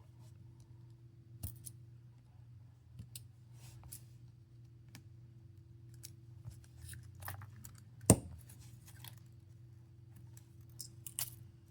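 Scattered light clicks and scrapes of small repair tools handling the opened phone's parts, with one sharper click about eight seconds in, over a faint steady hum.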